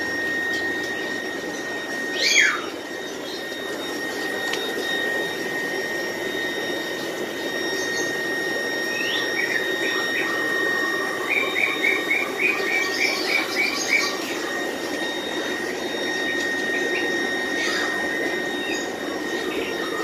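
Small birds chirping: one downward-sliding call about two seconds in, then a run of short quick chirps, about three a second, in the middle. Under them run a steady high whine and a constant low rushing hiss.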